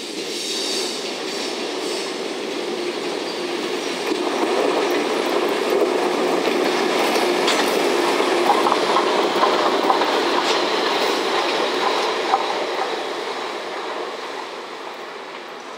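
EF65 electric locomotive towing an unpowered D51 steam locomotive past on a delivery run: wheels clattering over the rail joints, with some wheel squeal. It grows louder to a peak about halfway through, then fades as the train moves away.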